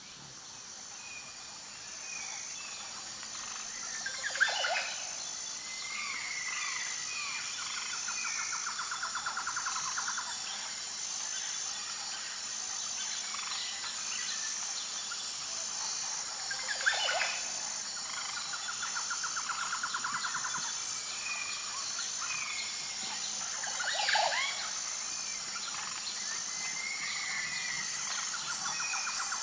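Tropical rainforest chorus: a steady, high-pitched insect drone under scattered bird calls. A rapid trilling call comes back about every ten seconds, and three loud calls sweep sharply downward in pitch, the loudest sounds, at about four, seventeen and twenty-four seconds in.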